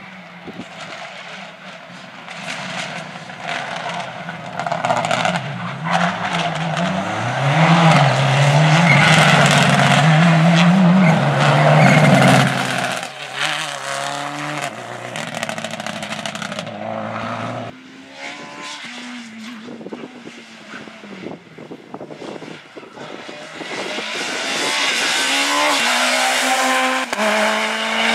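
Rally car engines at full effort on a special stage. The engine note rises and falls with gear changes and lifts, loudest around the middle as a car passes, then fades. Near the end another car approaches, its engine note climbing as it accelerates.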